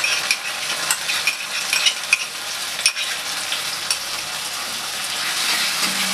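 Chopped onions and a freshly added chili-onion-garlic-ginger-coconut paste sizzling in hot oil in a steel kadai, with a spatula scraping and clicking against the metal pan as the paste is stirred in.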